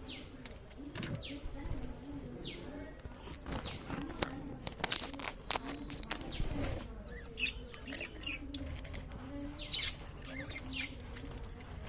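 Lovebird giving short, high chirps that fall in pitch, with a busy stretch of wing flaps, scratching and clicks in the middle as it scuffles about its nest. A low wavering hum sits underneath.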